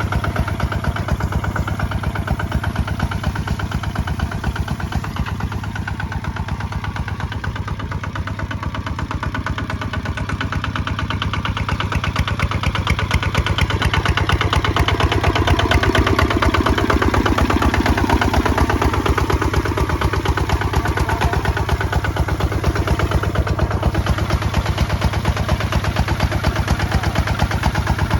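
Kubota ZT155 walking tractor's single-cylinder diesel engine running steadily while plowing, with a fast, even beat. It grows louder about halfway through.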